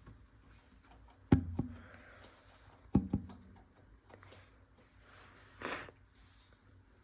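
Hard objects knocking as things are handled: one sharp knock a little over a second in, then two more close together about three seconds in. A short hissing noise follows near the end.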